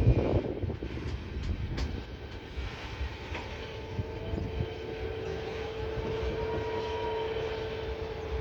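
Train running by with a low rumble and scattered knocks, joined about three and a half seconds in by a steady whine, with a fainter tone above it that rises and falls.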